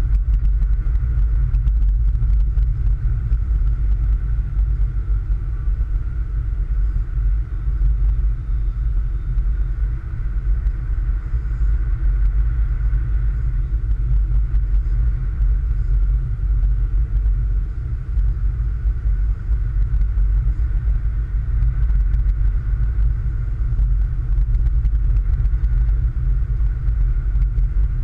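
A car driving on snow-covered roads, giving a steady low rumble of engine and road noise.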